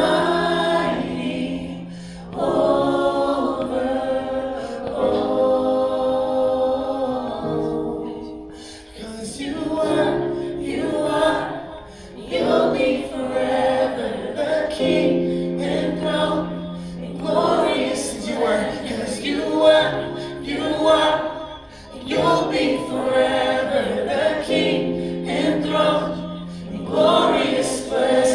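Congregation singing a worship song together in phrases a few seconds long, over held low notes.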